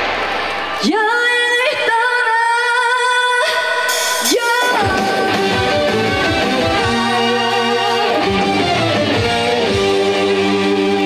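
Live trot song: a female singer sliding up into long held notes with vibrato over a band with guitar.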